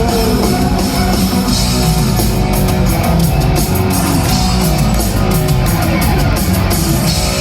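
Instrumental rock passage from a band: electric guitars over bass and drums, with no singing.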